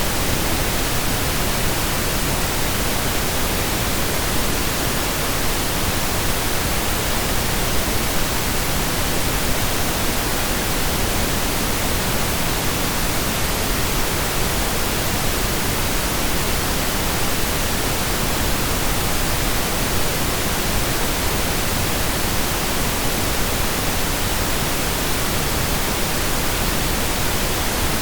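Synthesized pink noise: a steady, even hiss spread across the whole audible range, like rain or a distant waterfall, with no changes.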